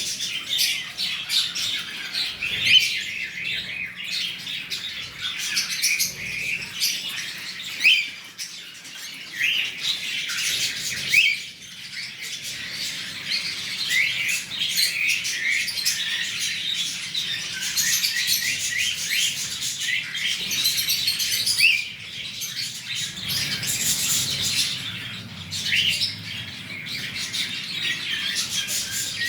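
Cockatiel chirping, a steady stream of short, high calls, some sweeping quickly upward.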